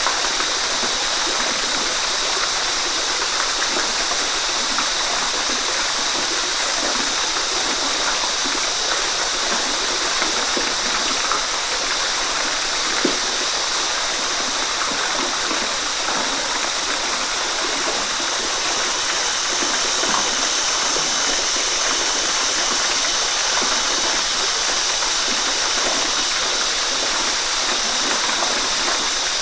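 Waterfall and its stream running: a steady, even rush of falling and splashing water.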